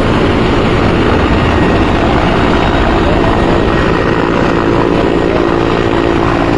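Helicopter running steadily, a loud continuous drone of rotor and engine.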